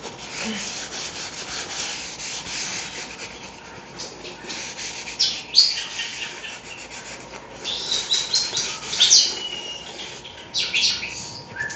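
A sponge scrubbing the basin of a bird-bath fountain in quick, continuous rubbing strokes. Pet European starlings chirp and whistle over it, with a few sharp calls in the second half.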